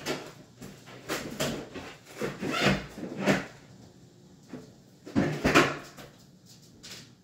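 Several wooden knocks and clunks, like cabinet doors or drawers being shut and cabinet parts being handled, in uneven groups about a second, three seconds and five and a half seconds in.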